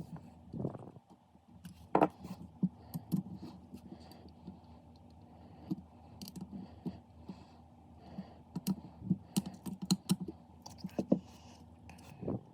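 Typing on a computer keyboard: irregular key clicks in two bursts, the second busier, over a low steady hum.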